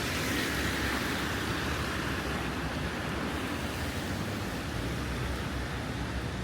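Steady hiss of rain and tyres on a wet city street, brightest in the first second or two and then slowly fading.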